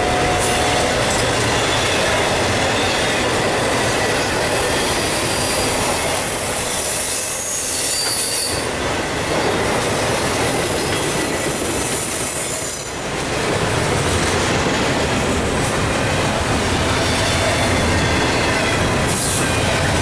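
Intermodal freight cars (double-stack well cars and trailers on flatcars) rolling past close by: a loud, steady rumble and clatter of steel wheels on rail. A thin high squeal holds from about a quarter of the way in to just past the middle, and the noise dips briefly twice.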